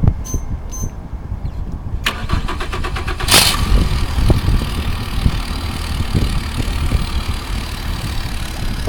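Two short high beeps, then the Sun Cruise 24 boat's engine cranks on its starter for about a second, catches with a loud burst and settles into a steady idle.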